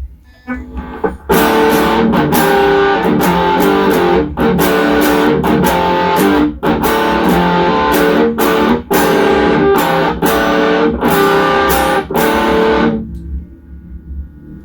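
Electric guitar played through an MXR Super Badass Distortion pedal: distorted chords in short riffs with brief stops between them. The playing starts about a second in and ends about a second and a half before the end. A low hum sits underneath throughout.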